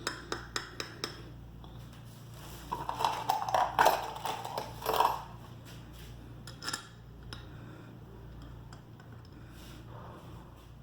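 Small steel bolts and metal parts clinking as they are picked up and set by hand into a motorcycle engine cover: a quick run of light clicks at first, a busier clatter about three to five seconds in, then a few single clicks.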